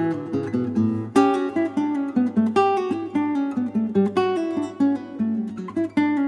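Acoustic guitar music: plucked and strummed notes in a quick, even rhythm.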